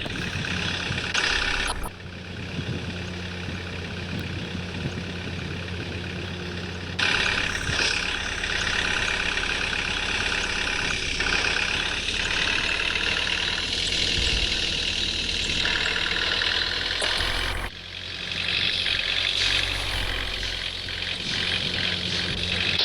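Truck engine running steadily. The sound changes abruptly about 2, 7 and 18 seconds in, as between cut-together clips.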